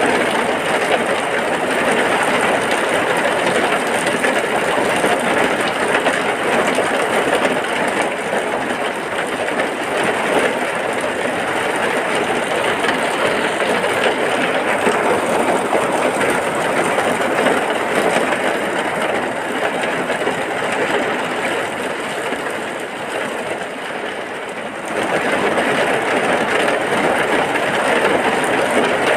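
Heavy rain falling in a steady, dense hiss; it eases slightly for a few seconds, then comes back abruptly near the end.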